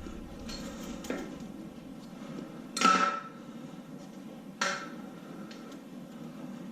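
Metal parts and tools clanking against each other while an engine is being dismantled: a light knock about a second in, then a loud clank with a short metallic ring near three seconds, and another ringing clank a couple of seconds later.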